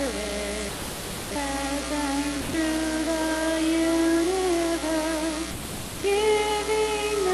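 Female voice singing a slow hymn melody in long held notes, with two short breaks, about a second in and near six seconds.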